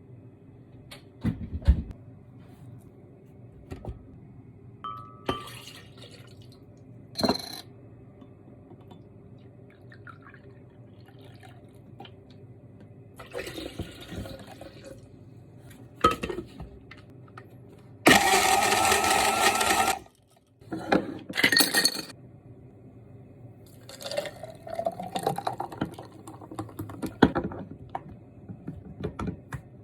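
Household handling sounds: scattered clinks and knocks of small objects, and about two-thirds in a loud two-second rush of running water that stops abruptly.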